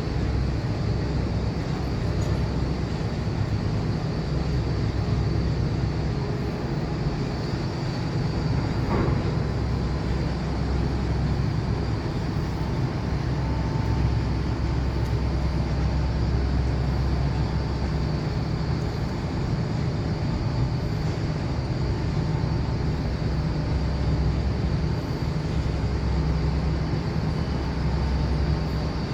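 Steady, unbroken low mechanical rumble with a thin high whine held throughout, typical of heavy vehicle or ship machinery.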